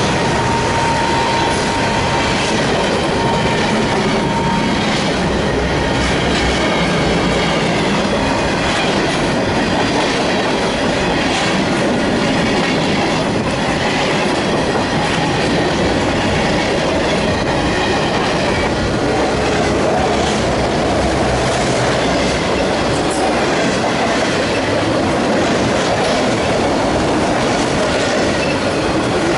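Mixed freight train cars rolling steadily past, steel wheels clacking over the rail joints, with a thin steady wheel squeal for the first few seconds.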